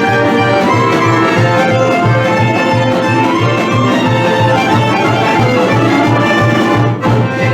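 Instrumental Vlach folk dance music from a medley, a fiddle melody over a steady, quick bass beat. The music dips briefly near the end and carries on.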